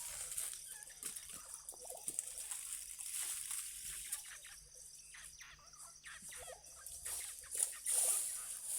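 Dry leaves crackling and rustling as they catch fire in a newly lit campfire, with more dry leaves being tossed onto the flames.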